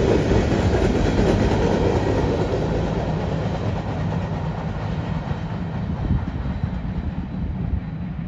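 Freight train tank cars rolling on steel rails, the rumble slowly fading as the end of the train moves away.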